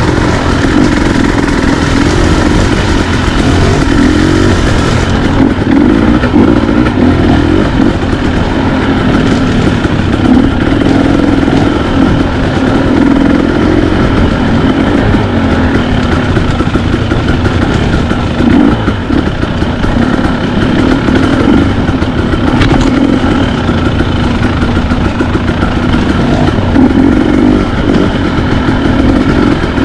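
Dirt bike engine running continuously as it is ridden, the pitch rising and falling with the throttle.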